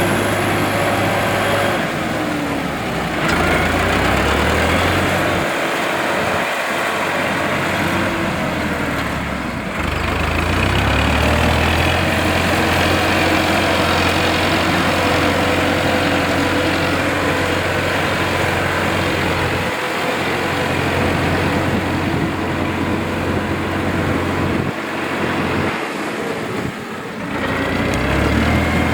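Tractor engine running steadily, its low drone stepping up and down in pitch, with a few brief abrupt dips.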